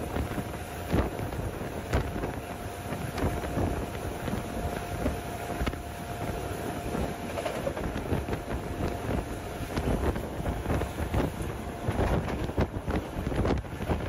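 Moving passenger train heard from on board: steady rumble and rattling of the wheels on the rails with frequent irregular knocks, and wind buffeting the microphone. A thin steady whine runs along with it and fades out about two-thirds of the way through.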